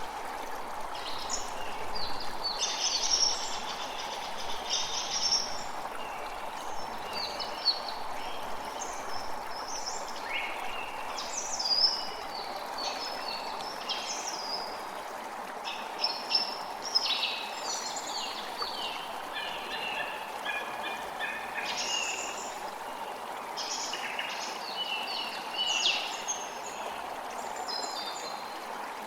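Forest birds singing and calling, many short chirps and trills one after another, over the steady rush of a creek.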